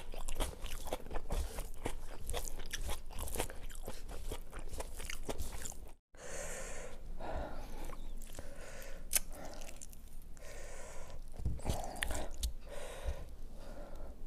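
A person chewing crunchy fried food close to the microphone, with dense crisp crunches. The sound cuts out briefly about six seconds in, then the chewing carries on sparser and softer.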